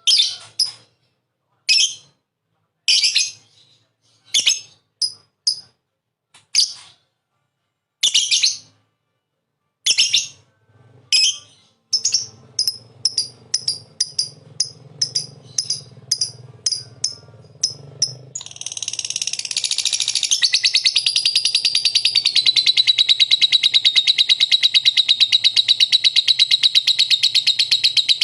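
Lovebird calling with sharp high chirps, spaced apart at first and coming faster after about twelve seconds. From about eighteen seconds in they run together into one long, continuous rapid trill.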